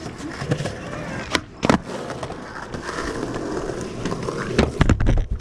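Skateboard wheels rolling steadily, with sharp clacks of the board about a second and a half in and a cluster of louder clacks and thumps near the end, after which the rolling stops.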